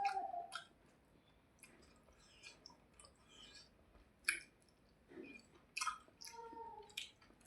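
Close-miked eating sounds: wet chewing and lip-smacking, with sharp irregular smacks a few seconds apart, as rice and fish are eaten.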